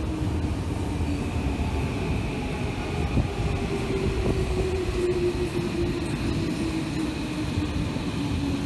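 Tobu 10030 series electric train running on past the station: a continuous rumble of wheels on rail with a steady hum.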